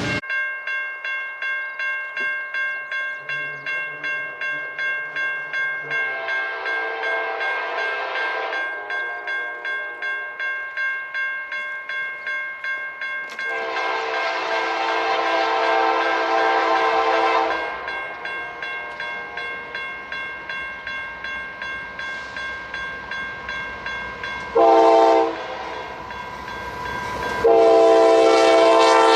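Grade-crossing bell ringing steadily, a little under two strokes a second, while a locomotive air horn sounds a chord in the grade-crossing pattern: two long blasts, a short one, then a long one starting near the end.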